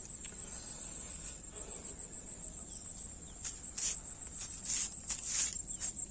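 Insects trilling steadily at a high pitch, with a handful of short, sharp rustling clicks in the second half.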